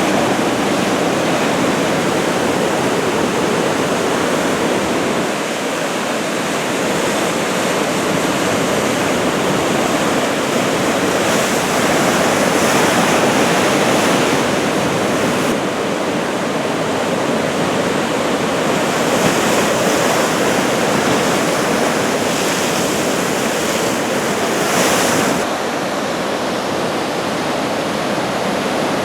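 Ocean surf: head-high typhoon swell breaking continuously along the shore, a steady wash that swells a little louder as bigger sets break, once briefly near the end.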